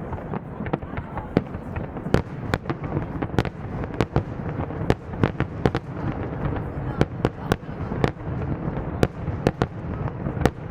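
Aerial fireworks display: a rapid, irregular series of sharp bangs, a few each second, over a continuous low rumble of further bursts.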